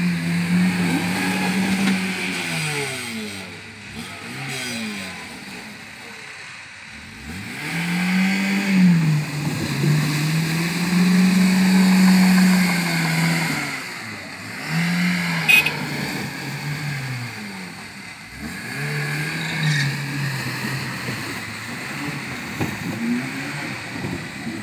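Lada Niva's engine revving up and down again and again as the 4x4 drives through a muddy, water-filled ditch, its wheels churning the water.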